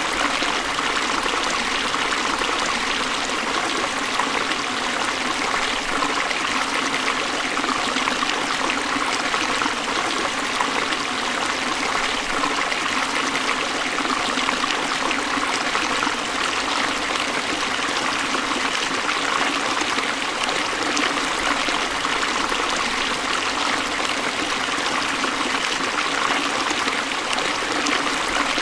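Forest stream flowing steadily over rocks, a continuous even rush and trickle of water.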